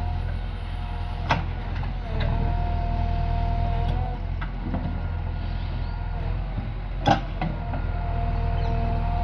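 JCB 3DX backhoe loader's diesel engine running steadily, with a higher whine that comes and goes and two sharp knocks, about a second in and near seven seconds.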